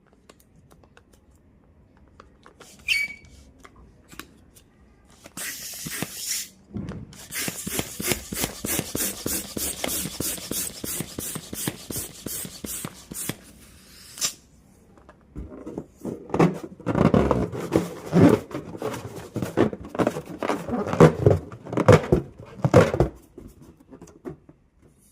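Air escaping through the stretched neck of a rubber balloon: a hissing release that flutters rapidly and evenly for several seconds. It is followed by a second, lower and rougher stretch of pulsing sound, with a short squeak near the start.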